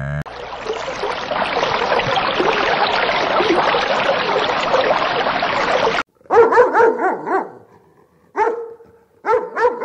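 A steady, dense hiss cuts off suddenly about six seconds in. Then a dog barks several times in short groups.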